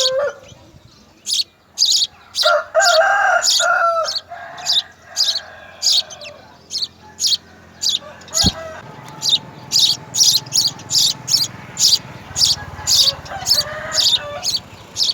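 Small birds chirping in short, high notes repeated two to three times a second, with a longer, lower drawn-out call about three seconds in.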